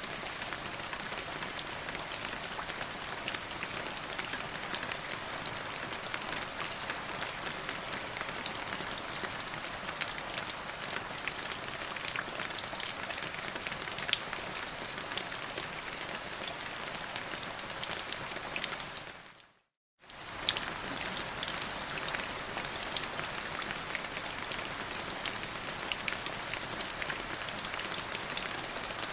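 Steady heavy rain falling, with many separate close raindrops ticking through the hiss. About two-thirds of the way through it fades out to silence for half a second, then cuts straight back in.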